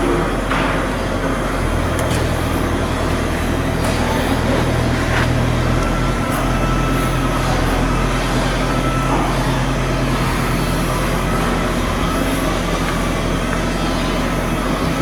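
Steady low mechanical hum of shipyard machinery running, with a few short knocks or clangs in the first five seconds.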